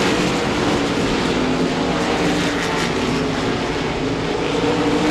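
Several RaceSaver sprint cars' 305 V8 engines running at speed together, a steady, loud multi-engine drone with no single car standing out.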